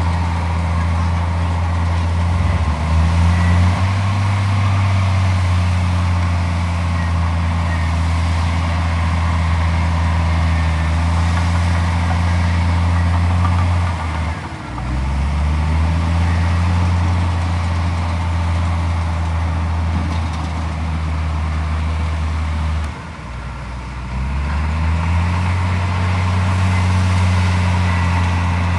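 Heavy diesel engine running steadily with a deep drone, its pitch sagging and climbing back three times as the load or throttle changes.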